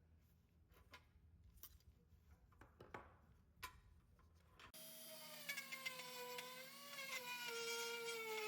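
Faint clicks and knocks of parts being handled. Then, about two-thirds of the way in, an electric power tool's motor starts up abruptly with a steady whine whose pitch sags and recovers, as if the motor is being loaded.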